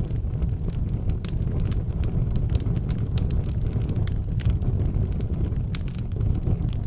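Wood fire burning in an outdoor fireplace: frequent irregular crackles and pops over a steady low rumble.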